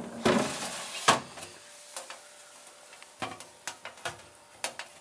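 Freezer drawers of a Miele fridge freezer being pulled out and pushed back in: a series of knocks and clunks, the loudest about a second in and a quicker cluster of lighter knocks near the end.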